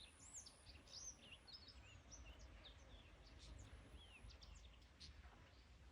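Faint chirps and twitters of several small birds: many short rising-and-falling high notes, a few each second, over a low rumble.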